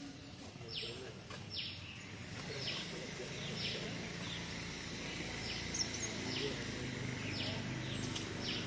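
Outdoor ambience: a short, high chirp repeated about once a second, over a low murmur of voices.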